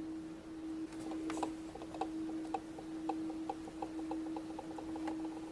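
A steady hum-like tone with a run of light, regular ticks, about three a second, starting about a second in and stopping near the end.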